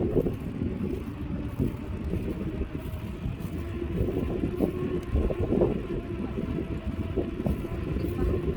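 Low, steady rumble of road traffic mixed with wind noise on the microphone.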